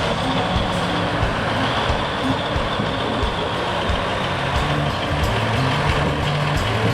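Old Krupp truck's diesel engine running steadily.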